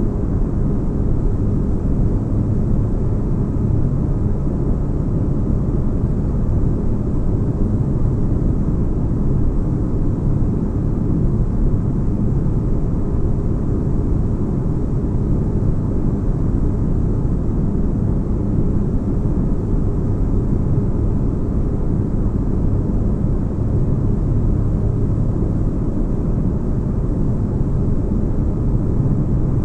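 Steady deep rumbling drone of a spaceship ambience, a low-pitched noise with faint hum lines in it, unchanging throughout.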